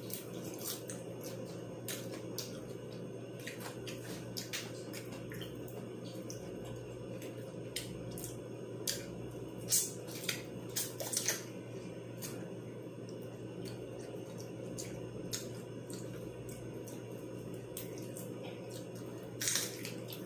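Close-miked chewing of fried chicken wings: wet mouth and lip-smacking sounds with scattered sharp clicks, busiest around ten seconds in and again near the end, over a steady low hum.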